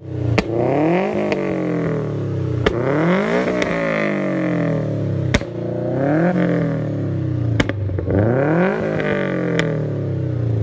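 Car engine revving hard, its pitch climbing and dropping again and again, with a sharp crack at about five of the drops.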